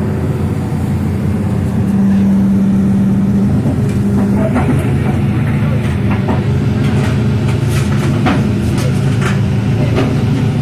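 Excavator's diesel engine running steadily under load, with a louder hum about two seconds in. Sharp clanks begin about halfway through.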